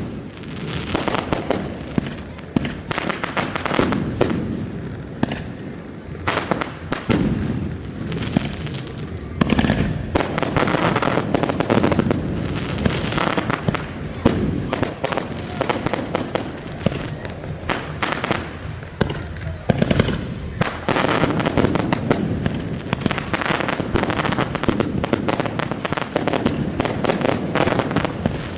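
Fireworks display going off continuously: a dense, unbroken run of bangs and crackling reports.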